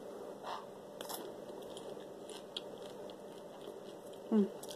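Mouth-closed chewing of cheddar cheese popcorn (Cheetos Popcorn), with faint scattered crunches. A brief voice sound near the end.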